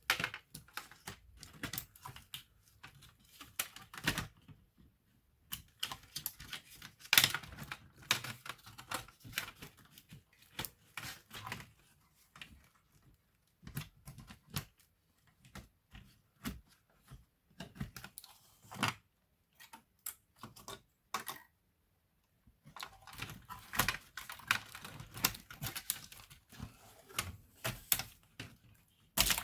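Irregular clicks, taps and short scrapes of hands and small tools working on a laptop's plastic case and internal parts during disassembly, with a couple of brief pauses.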